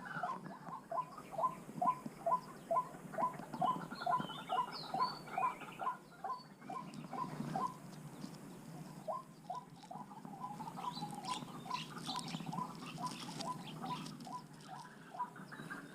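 A bird giving short calls in a steady run of about three a second, pausing briefly about halfway through before starting again, with a few fainter, higher chirps.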